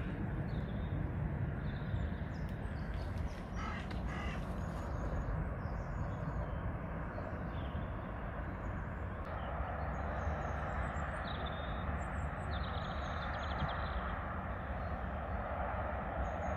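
Birds calling in short, scattered bursts over a steady low outdoor rumble. About halfway through, a broader rushing noise grows louder underneath.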